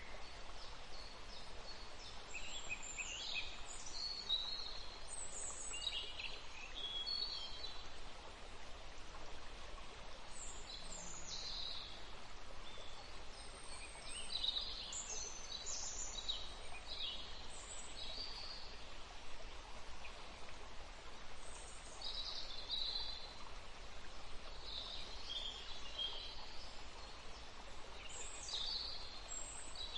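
Songbirds chirping and whistling, many short calls scattered throughout, over a steady background hiss.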